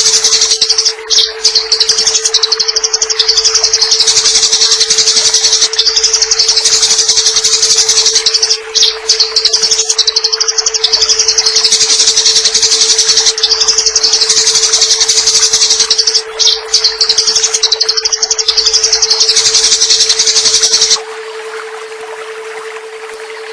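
Eurasian tree sparrows giving fighting calls: loud, rapid, harsh chattering with only brief breaks, over a steady hum. The chattering stops near the end, leaving a softer running-water sound.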